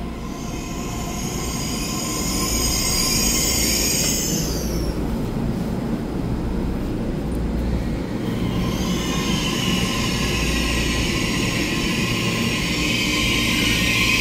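EMU3000 electric multiple unit rolling slowly along the platform as it pulls in: a low rumble of wheels under high-pitched squealing. The squeal comes in two spells, the first in the opening few seconds and the second from about eight seconds in, growing louder near the end.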